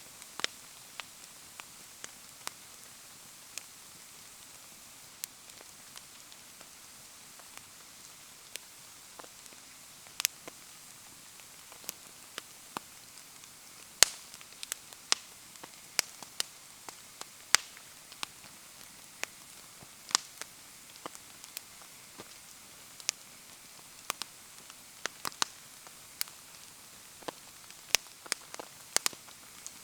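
Wood fire crackling in the rain: sharp, irregular pops and snaps, a few a second at the busiest, over a soft steady hiss of rain.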